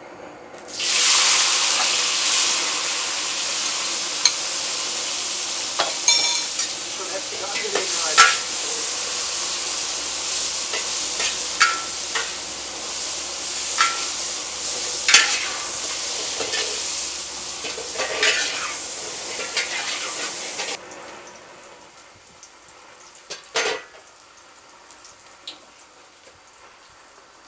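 Marinated tofu cubes frying in hot peanut oil in a hand-hammered wok. A loud sizzle starts suddenly as the tofu goes in, with a metal spatula scraping and clinking against the wok as it is stirred. About three quarters of the way through the sizzle cuts off suddenly, and near the end there is a single clank.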